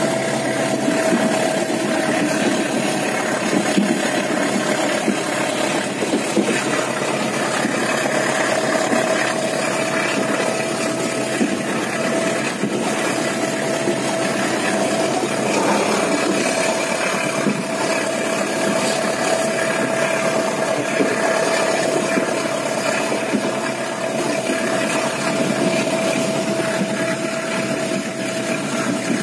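Steady running noise heard from inside a moving passenger train coach, with a constant hum over the rumble of the train.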